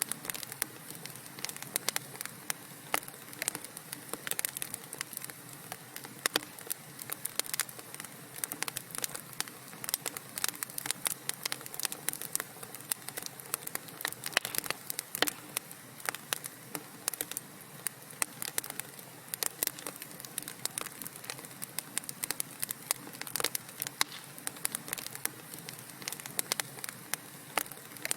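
Wood fire crackling: a dense, irregular stream of sharp pops and snaps over a steady low hiss.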